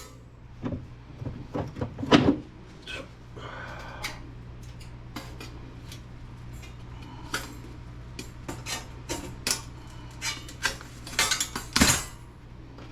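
Scattered clinks and clatters of small steel and brass laptop parts being handled and set down on a work surface. There is a louder clank about two seconds in and another near the end.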